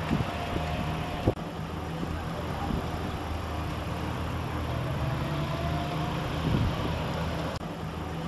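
Steady low hum of an idling vehicle engine under outdoor background noise, with a sharp click about a second in.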